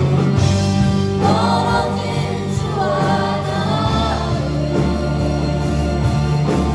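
A group of voices singing a praise-and-worship song together over instrumental accompaniment with sustained low bass notes.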